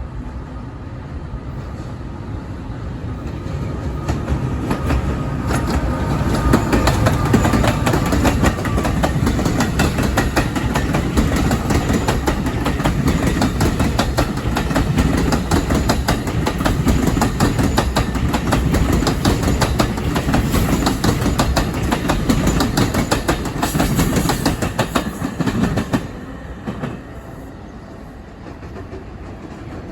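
A passenger train passing close by, its wheels clicking rapidly over the rail joints. The sound builds over the first several seconds, holds loud, then drops off sharply about 26 seconds in as the train clears.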